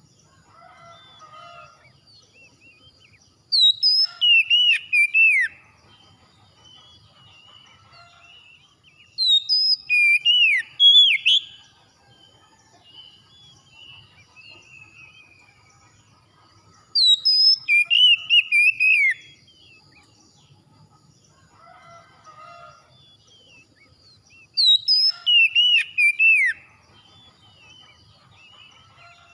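A songbird singing loud phrases of fast, gliding whistled notes, four times, each phrase about two seconds long and roughly seven seconds apart. Quieter chirps from other birds continue in between.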